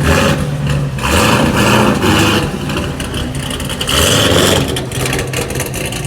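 Car engine running loudly with a low exhaust rumble, revving up in several swells.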